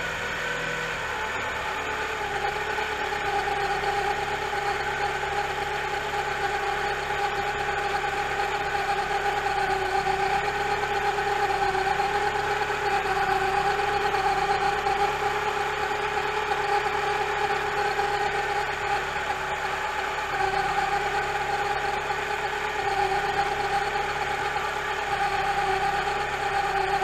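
Rebuilt 2.4-litre four-cylinder engine of a Mitsubishi Lancer Evolution IX idling steadily, with a constant whine over the idle: the timing belt noise that appeared after the engine rebuild.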